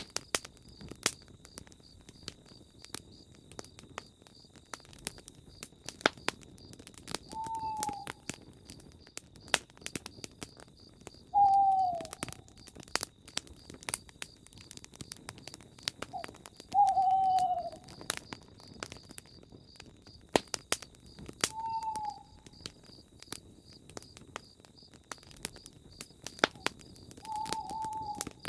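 Campfire crackling with frequent sharp pops, while an owl gives five short, slightly falling hoots about five seconds apart. A faint steady insect trill runs underneath.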